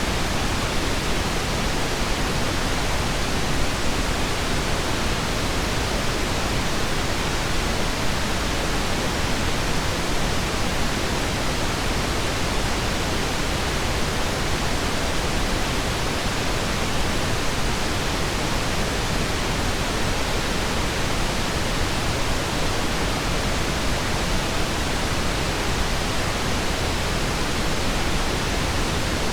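Steady pink noise: an even, unchanging hiss spread across all pitches, with no chimes or ticks.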